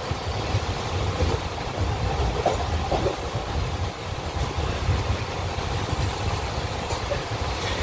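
Passenger train running along the track, heard from inside the coach through open barred windows: a steady, wavering rumble of the wheels on the rails.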